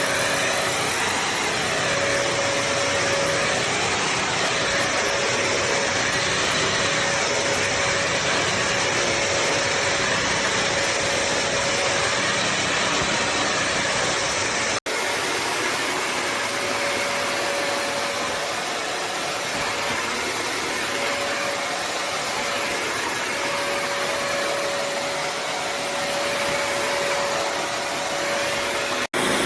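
A Bissell CrossWave HydroSteam wet-dry vacuum running steadily: an even motor and suction noise with a faint steady whine. It cuts out for an instant about halfway through and again just before the end.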